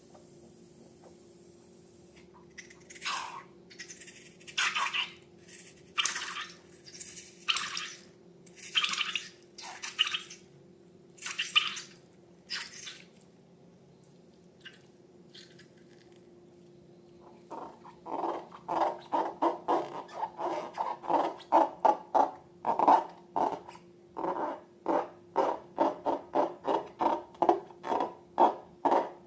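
Slime being worked by hand, close up: first a slow series of separate wet squishes about a second apart, then, just over halfway through, a quick run of short squelches, two to three a second.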